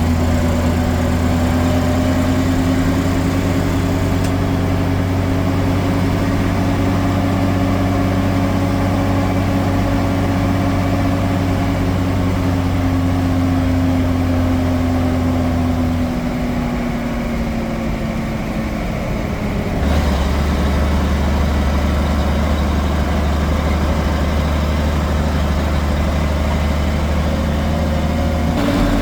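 Engine of a military deuce-and-a-half (2½-ton) dump truck running steadily. Its pitch eases down a little around the middle, and the sound shifts again about two-thirds of the way through.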